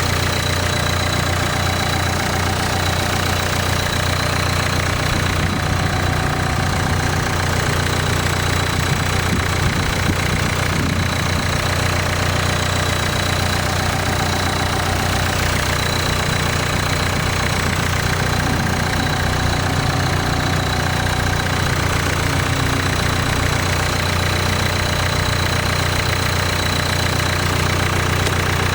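Nissan Note's 1.5 dCi four-cylinder turbodiesel engine idling steadily, with no change in speed.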